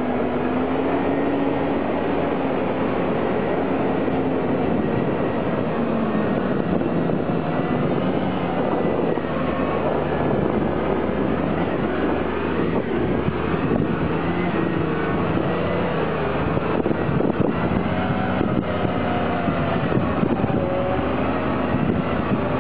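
Fendt 936 tractor's diesel engine running hard under load in a tractor pull, its pitch wavering up and down.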